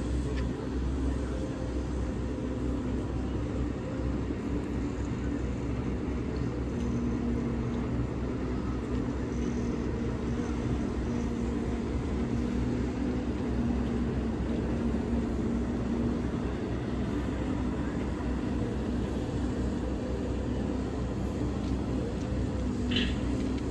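Railway locomotive running steadily with a low rumble and a constant hum. A brief high squeal comes near the end.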